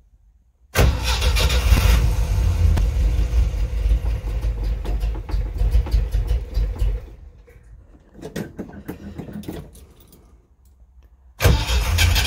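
UAZ 469's four-cylinder petrol engine being cranked over by its starter for about six seconds without catching, then a few short irregular noises, then cranked again near the end. It will not start because fuel is not getting through.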